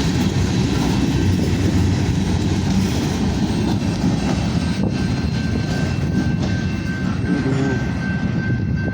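Freight train cars rolling past at close range: a steady, loud rumble and rattle of steel wheels on the rails as the last cars of a short manifest go by. A faint thin whine joins about halfway through.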